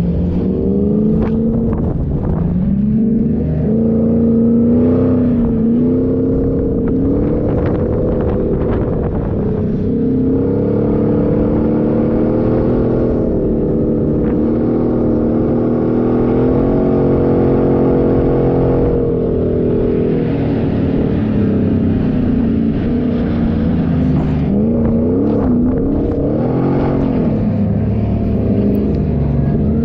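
Engine of an off-road 4x4 driving in desert sand, its pitch rising and falling as the throttle changes, over a steady rushing noise.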